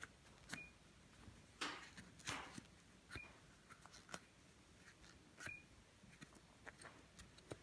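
Faint, irregular clicks and short scrapes of small parts being handled and scraped, a few with a brief high squeak: gummy deposits being worked out of a carburettor.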